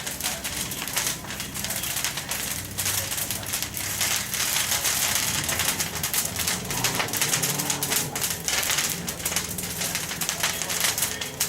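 Bonfire of yard debris crackling, with dense, irregular snapping and popping.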